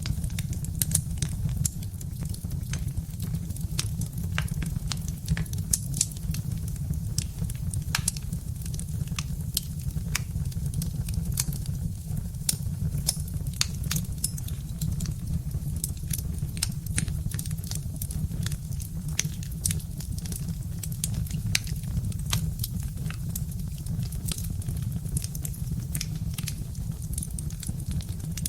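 Birch-log wood fire crackling, with frequent irregular sharp pops and snaps over a steady low rumble.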